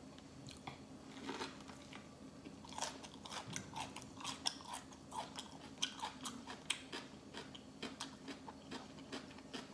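Close-miked chewing of a bite of fresh rice-paper spring roll with lettuce and carrot: soft, crisp crunches and many small ticks as the raw vegetables are chewed.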